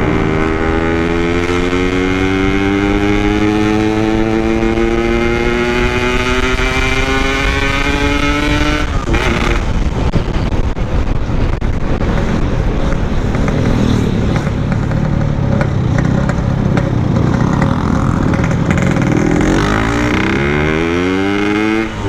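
Yamaha RX-King's single-cylinder two-stroke engine under hard acceleration, its note rising steadily for about nine seconds. It then drops back into a rough, noisy stretch with the engine less clear, and climbs again near the end, with a brief dip like a gear change just before the end.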